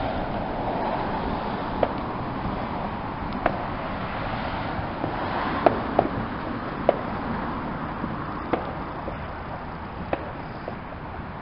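Steady outdoor background noise with sharp pops of distant fireworks going off irregularly, about one every second or two, the loudest near the middle.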